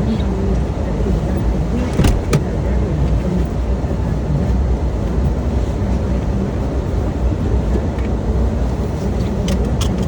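Steady low rumble of a vehicle running or driving, with two sharp clicks about two seconds in and a few more near the end.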